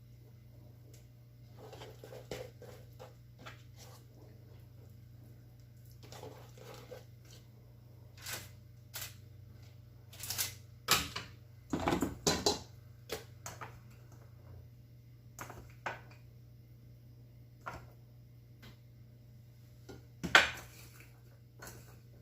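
Kitchen handling noises: scattered clinks and knocks of dishes and utensils, loudest around the middle and again near the end, over a steady low hum.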